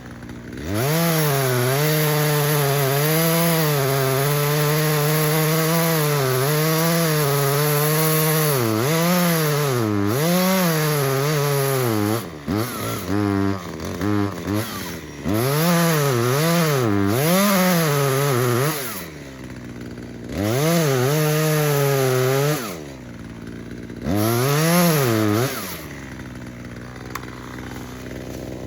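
Echo CS-3510 small two-stroke chainsaw held at high throttle for about twelve seconds while cutting wood, its pitch dipping and recovering under load. It is then revved up and down several times and drops to idle near the end.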